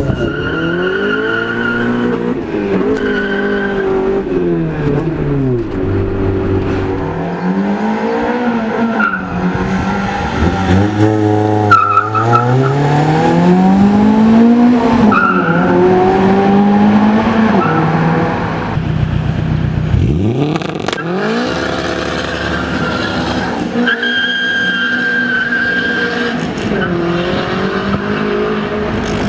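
Car engines revving up and falling back again and again, one car after another, with abrupt cuts between clips.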